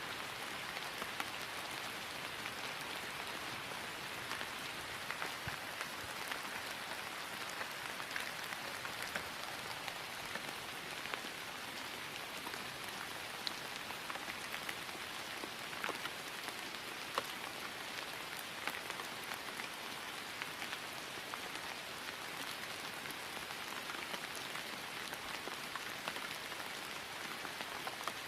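Steady rain falling on grass: an even hiss with scattered louder individual drop ticks.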